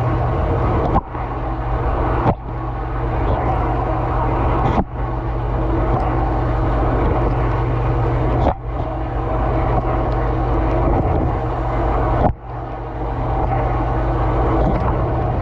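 Dishwasher mid-cycle heard from inside the tub: the wash pump hums steadily under a continuous spray of water from the spray arms, with a few brief sudden dips in the spray at uneven intervals.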